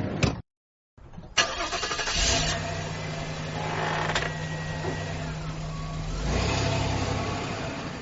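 Van engine starting about a second in and then idling steadily. A sharp clack comes around four seconds in, and the engine rises in level near the end before fading out.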